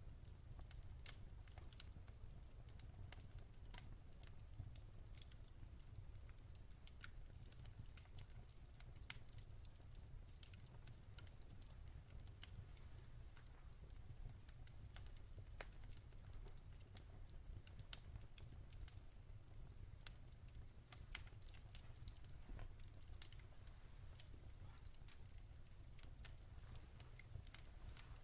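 Campfire crackling faintly: irregular sharp pops and snaps of burning wood, a few louder than the rest, over a low steady rumble.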